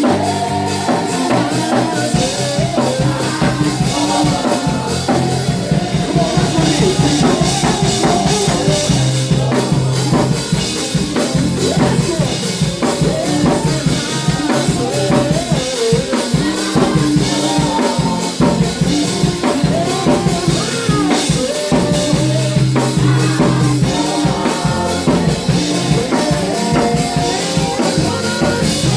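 Live gospel praise-and-worship band playing with drum kit and bass, with some singing.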